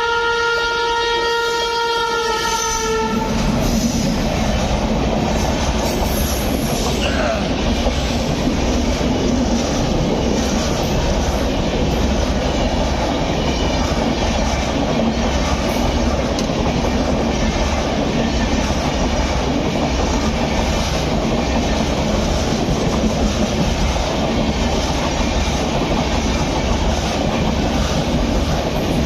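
A WAP-7 electric locomotive's horn sounding one long blast that cuts off about three seconds in, then the loud rumble and rhythmic wheel clatter of the express train running at speed.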